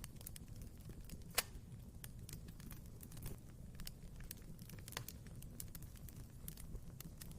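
Wood fire crackling in a fireplace: irregular snaps and pops over a low rumble of flames, with a sharper pop about a second and a half in and another around five seconds.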